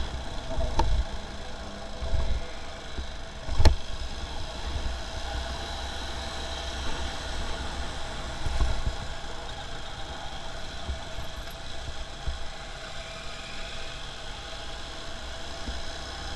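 Motorcycle riding in traffic: its engine running at low revs under a low, gusting rumble, with one sharp click about three and a half seconds in.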